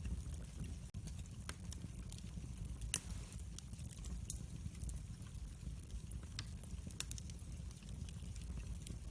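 Wood fire crackling: irregular sharp pops and snaps over a steady low rumble of the flames, with one louder pop about three seconds in.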